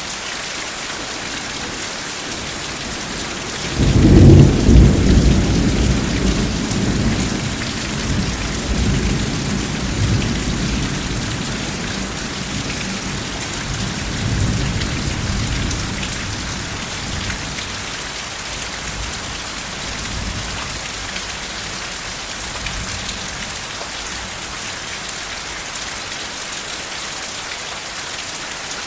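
Steady heavy rain hissing, with a roll of thunder breaking in suddenly about four seconds in, loudest at its start, rumbling on and slowly fading away over the next ten seconds or so.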